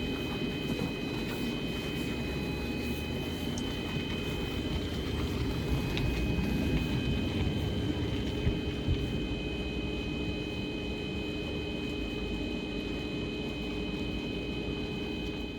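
Roslagsbanan narrow-gauge electric train: a steady low rumble with several high whines of unchanging pitch.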